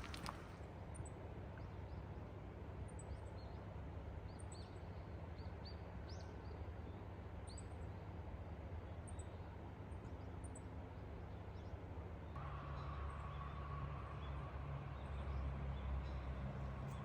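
Small birds chirping in short, scattered calls over a steady low rumble. About twelve seconds in, a low steady hum joins.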